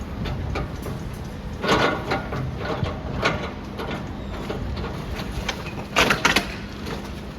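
Demolition machinery running steadily under a demolition job, with bursts of scraping and crunching as the building is broken up: the loudest about two seconds in and again near the end.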